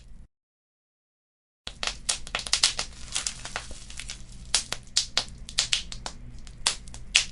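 Wood fire crackling with many sharp pops and snaps over a low steady rumble. Shortly after the start the sound cuts out to dead silence for about a second and a half, then comes back.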